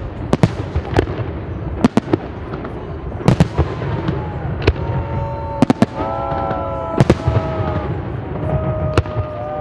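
Fireworks display: aerial shells bursting in an irregular run of sharp bangs and crackles, some in quick pairs, over a continuous rumble. Long drawn-out shouts from people are heard between the bangs.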